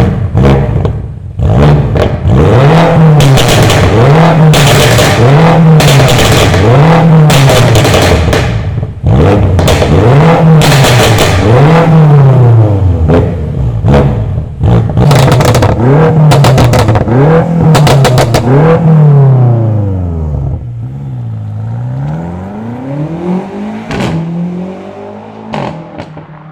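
BMW M5 F90's twin-turbo V8 through a tuned aftermarket exhaust, revved in a steady series of quick blips, about one every second and a half, with sharp pops between them; after about twenty seconds the revs become slower and longer.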